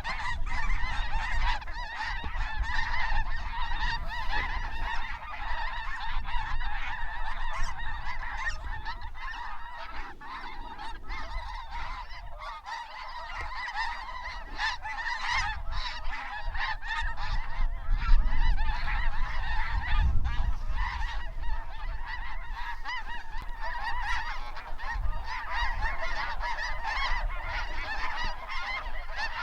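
A large flock of snow geese calling continuously, a dense overlapping chorus of high honks, with a low rumble of wind underneath.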